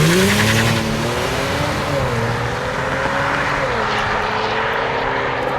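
Kia Stinger GT's 3.3-litre twin-turbo V6 under hard acceleration, heard from inside the cabin: the engine note climbs, then drops and climbs again with an upshift about two seconds in and another near four seconds.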